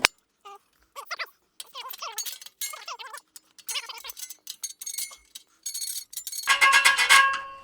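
A steel exhaust spring being pried onto its hook with a straight pick: scattered clicks and wobbling metallic squeaks, then a loud metallic clang with a ringing tone about six and a half seconds in as the spring slips into place.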